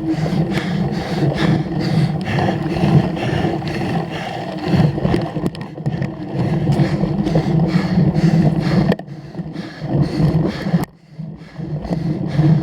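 Cyclocross bike ridden hard over rough ground: a steady rumbling noise with rapid rattling and scraping, briefly quieter about nine and eleven seconds in.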